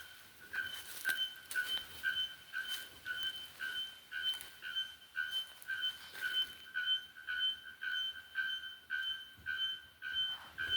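Bare-throated bellbird (araponga) calling: a steady series of short, clear, ringing notes on one pitch, about two a second.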